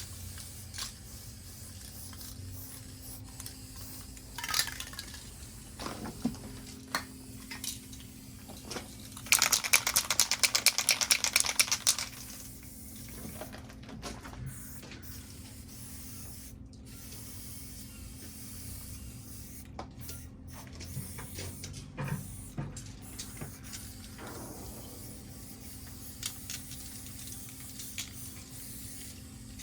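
Aerosol spray paint cans hissing in short and longer sprays. About a third of the way in, a spray can is shaken hard for nearly three seconds, its mixing ball rattling rapidly. This is the loudest sound.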